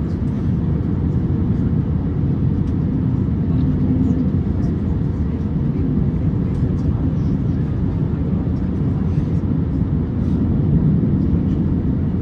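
Steady low rumble inside the cabin of an Airbus A350-900 taxiing, its Rolls-Royce Trent XWB engines at taxi power. A few faint ticks sound over it.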